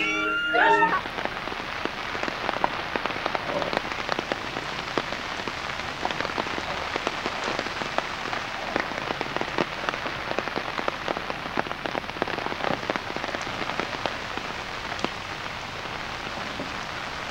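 Steady rain falling on floodwater: an even hiss full of small drop ticks. A moment of singing cuts off about a second in.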